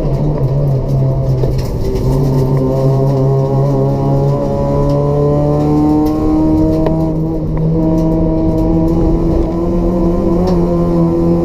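Race-built Toyota Etios 1.5-litre petrol engine with free-flow exhaust, pulling under acceleration: its pitch climbs slowly through a gear, drops with an upshift about seven and a half seconds in, then climbs again.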